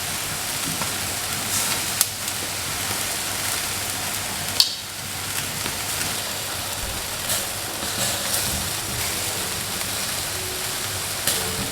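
Food sizzling in a frying pan: a steady hiss with a few sharp pops. Faint music comes in near the end.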